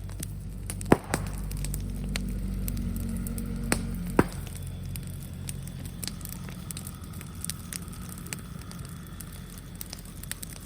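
Bonfire of brush and bamboo crackling steadily with scattered snaps, and two sharp, loud pops about one and four seconds in.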